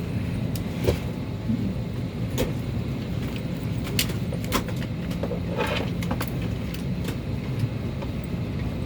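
Steady low hum of an airliner cabin during boarding, the air ventilation running, with scattered sharp clicks and knocks.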